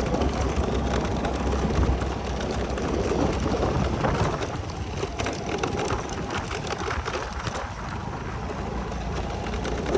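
Vehicle riding over a rough unpaved road: a steady low drone under constant rattling and crunching.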